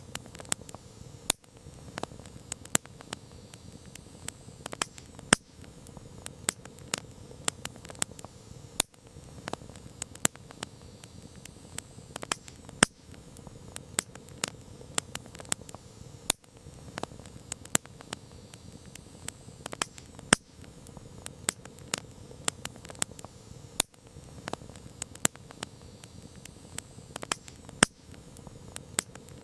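Wood campfire crackling: irregular sharp pops and snaps, several a second, some much louder than others, over a steady low hiss.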